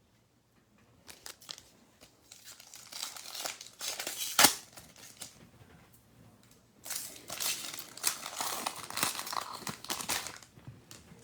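Foil trading-card pack wrappers being crinkled and torn open, with one sharp rip about four and a half seconds in and a second stretch of crinkling from about seven seconds until near the end.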